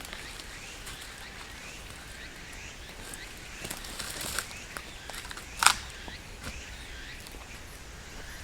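Outdoor woodland ambience: small high chirps repeat over a steady hiss, with a few light clicks and one sharper, louder click about five and a half seconds in.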